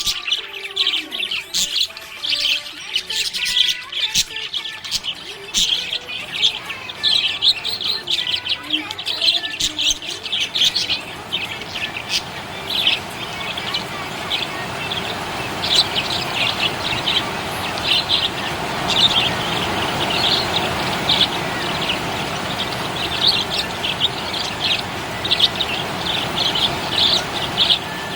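Budgerigars chirping and twittering in quick, dense runs of short high chirps. From about a third of the way in, a steady rushing noise builds up underneath them.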